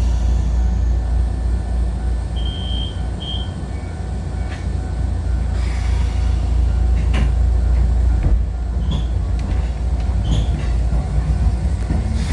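Kotoden 1080/1100-series electric train heard from the cab, standing at a station with a steady low rumble. Two short high beeps come about two and a half seconds in, then a few sharp clicks. A rising whine of the motors begins right at the end as the train starts to move.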